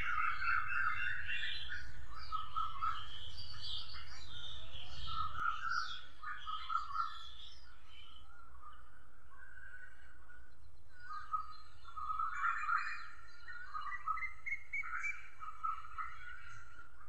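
Several small birds chirping and calling in short, quick notes, busiest in the first few seconds and again in the second half, over a low rumble that fades after about five seconds.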